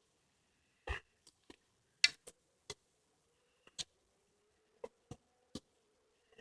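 Footsteps on a woodland path: a scatter of short, irregular crunches and clicks.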